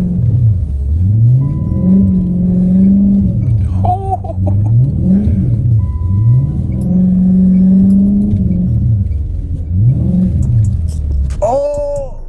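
Car engine revving hard over and over, its pitch climbing, holding high for a second or so, then falling, several times, as the car is drifted with the wheels spinning on snow. Near the end a voice or music comes in.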